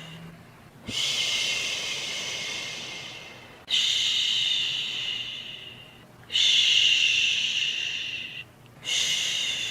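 A person's soothing 'shhh' shushing sound, repeated four times at an even pace: each shush starts suddenly and fades away over about two seconds, with a short pause before the next.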